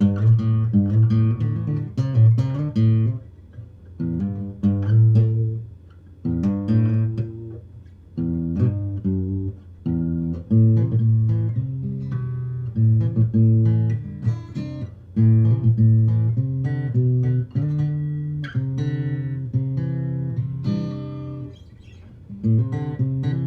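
Luna acoustic guitar with medium Elixir strings, played without an amp: repeating phrases of plucked notes and chords, each starting with a sharp attack and ringing out before the next.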